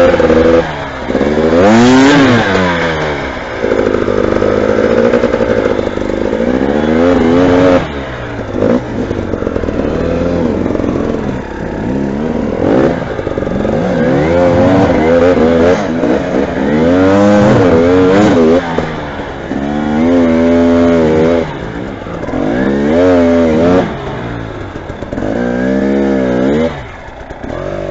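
Off-road motorcycle engine revving hard and dropping back again and again, its pitch rising and falling in surges every second or two.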